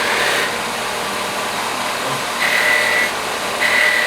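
Grinder fitted with a wire wheel running at full speed, just after spinning up. Twice it gets louder and takes on a steady high whine, first about two and a half seconds in and again near the end, as the forged steel piece is pressed against the wire wheel.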